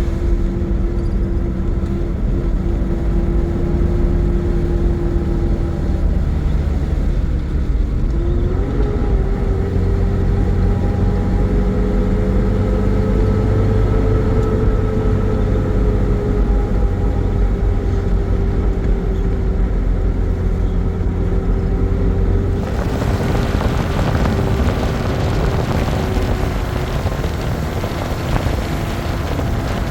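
An engine running steadily with a droning hum whose pitch rises slightly about eight seconds in. Near the end the hum fades under a broad rushing noise.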